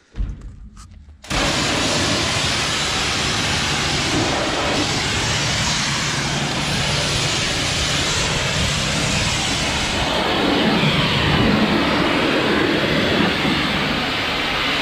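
Tractor engine running loud and steady, cutting in abruptly about a second in after a few light clicks.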